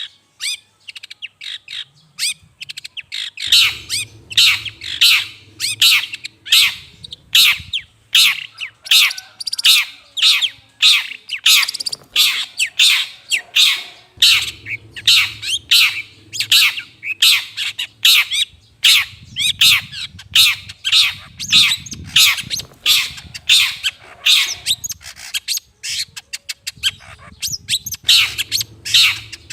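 Long-tailed shrike (cendet) giving harsh, scratchy scolding calls, repeated about twice a second, the kind of call used as a lure to draw in wild shrikes. The calls are sparser for the first few seconds.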